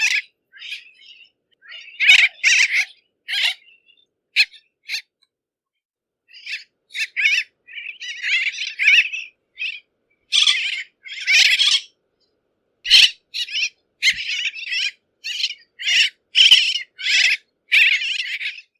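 Bridled tern calling: a string of short, harsh calls, some single and some in quick runs, with a silent gap of about two seconds a little after the start.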